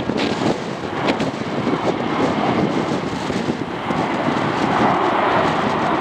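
Airliner engines running as a plane passes, mixed with gusting wind buffeting the microphone. The engine noise swells louder about two thirds of the way in.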